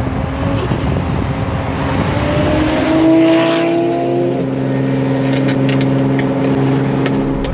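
Turbocharged Nissan 350Z's V6 under acceleration, with a high turbo whistle rising twice in the first two seconds, then the engine running at steady revs.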